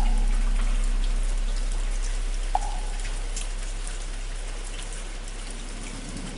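Steady rain with raindrops pattering, under the low hum of a large bell struck just before, slowly dying away. Two short hollow knocks of a wooden fish come at the start and about two and a half seconds in.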